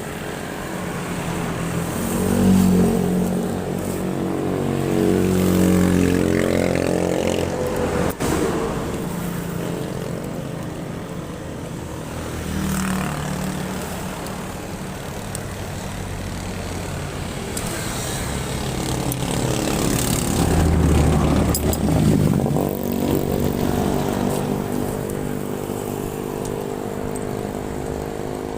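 Motorcycle engine running on the move, its pitch climbing and falling twice with the throttle, over road and wind noise.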